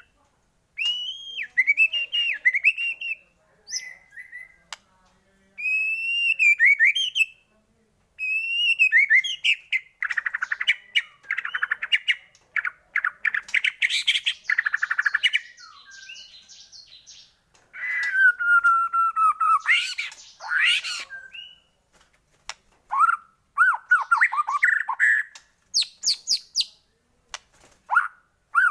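White-rumped shama (murai batu) singing a long, varied song: clear whistled phrases and rapid chattering runs mixed with harsh squawks, delivered in bursts separated by short pauses.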